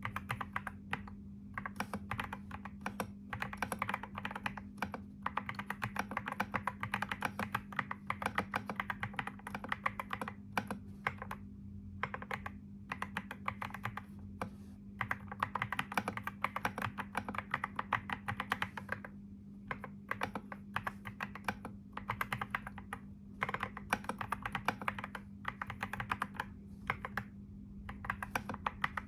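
Computer keyboard typing in quick, continuous runs of keystrokes, broken every few seconds by brief pauses. A steady low hum runs underneath.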